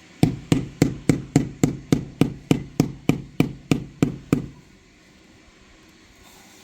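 A rapid, even series of about fifteen knocks, three to four a second, each a sharp strike with a short low ring, like repeated blows on wood. They stop after about four and a half seconds.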